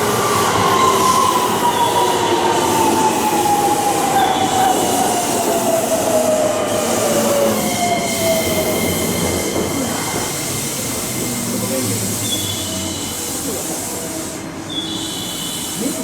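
Electric commuter train pulling into the station and braking, its motor whine falling steadily in pitch over the first seven or so seconds. Faint high-pitched squeals follow near the end as it slows to a stop.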